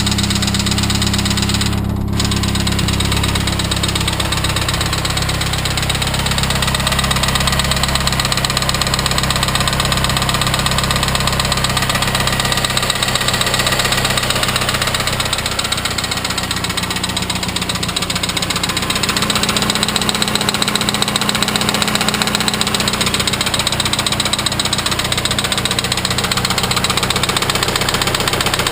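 Saab 9-3 Viggen's 2.3-litre turbocharged four-cylinder engine idling steadily with a knock, the engine knocking fault it is recorded for. Its note changes slightly about twelve and again about sixteen seconds in.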